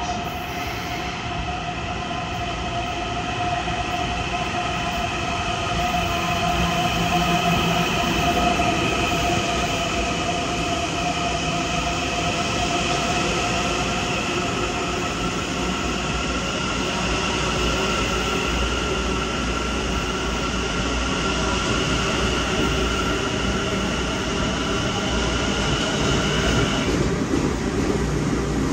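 Long Island Rail Road electric multiple-unit train moving in the station: steady high-pitched whining and squealing tones over a low rumble. The tones cut off suddenly near the end.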